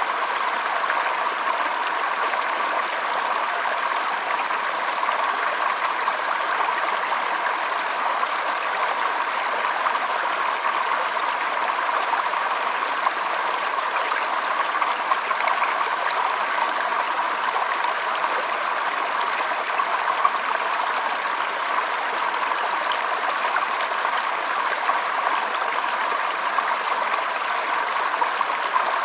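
Shallow stream trickling and burbling over stones, a steady rush of flowing water with small splashes.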